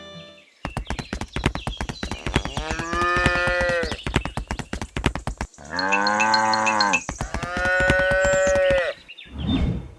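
Cattle mooing three long times, with a shorter low call near the end, over a fast, steady clatter of knocks.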